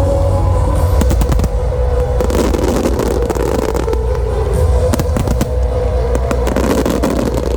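Fireworks going off in rapid crackling volleys with bangs, from about a second in, over steady music.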